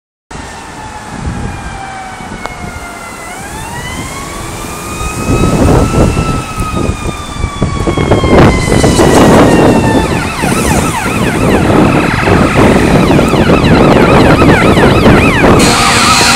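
Fire engine's siren sounding while the truck drives past on an emergency run. It winds through a slow wail, falling, rising again and easing down. About ten seconds in it switches to a fast yelp. A loud, steady horn-like blare joins near the end over the truck's rising rumble.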